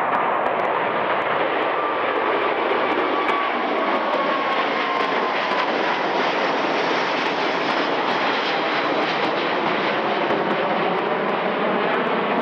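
Airbus A350-900 airliner's Rolls-Royce Trent XWB turbofans, a steady jet engine noise with a faint whine that slides slowly down in pitch over the first several seconds as the aircraft passes.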